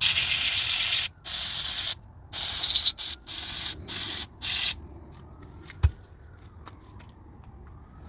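Spray hissing in a series of short bursts, about seven in under five seconds, each stopping sharply; a single sharp click follows about six seconds in.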